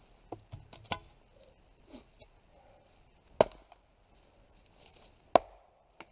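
Double bit axe splitting firewood: two sharp chopping strikes into wood about two seconds apart, after a few lighter knocks near the start.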